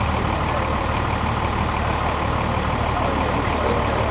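Steady low hum of a large vehicle engine idling, with no change in level.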